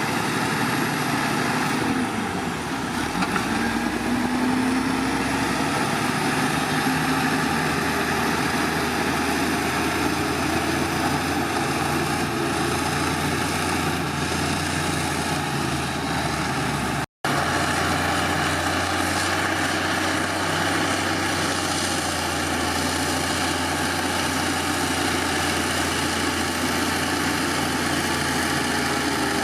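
Heavy diesel engine of earthmoving machinery running steadily, its pitch shifting briefly a few seconds in. The sound cuts out for an instant about halfway through.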